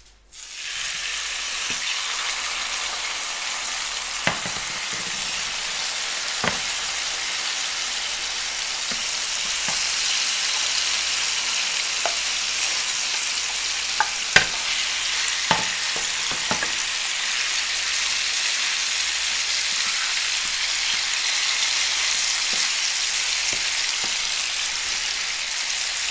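Salmon steaks frying in hot oil in a pan: a steady sizzle that starts suddenly just after the start, with a few short taps of a spatula against the pan.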